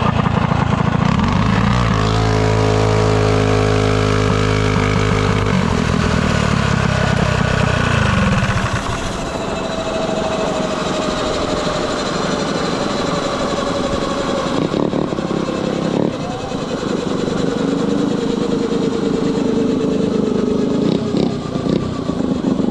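Small minibike engines. A nearby engine runs loud and steady for about the first eight seconds. After that, engines are heard farther off, racing, their pitch rising and falling as they rev.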